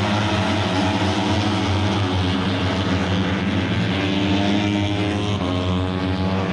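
Racing motorcycle engines running hard at high revs, a steady drone whose pitch steps to a new level about halfway through and again near the end.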